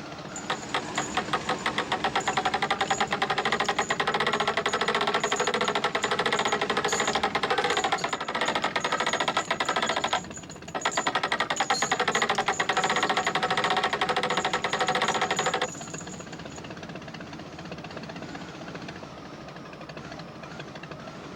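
Engine-driven machine running hard with a loud, fast rattle that cuts out for a moment about ten seconds in, restarts, then drops away about sixteen seconds in to a quieter steady engine running underneath.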